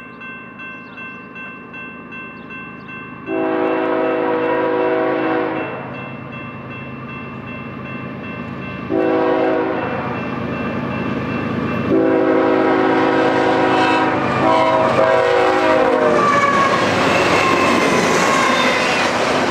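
A freight locomotive's multi-chime air horn sounds the grade-crossing pattern: long, long, short, long. Then the train passes close by with a loud, rising rush of wheel and engine noise.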